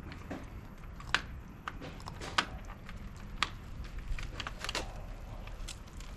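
Irregular small clicks and taps of hand tools and parts being handled during wiring work, with three sharper clicks about a second apart in the first half, over a low steady rumble.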